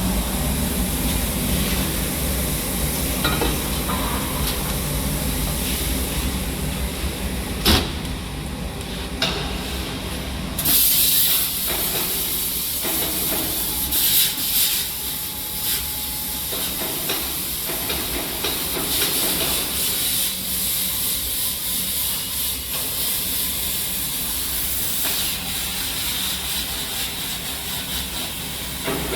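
Plasma torch hissing steadily as it cuts a scrap compressor's steel shell, over a low machine hum. A sharp click comes about eight seconds in, and the hiss turns louder and brighter a few seconds later.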